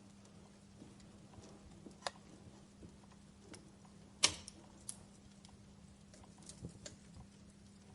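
Wood fire crackling in a fireplace: scattered sharp pops and snaps over a faint background, the loudest pop a little past four seconds in.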